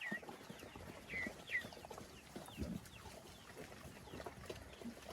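Birds chirping in short, falling calls, three clear ones in the first second and a half and fainter ones after, over rustling and a few soft knocks.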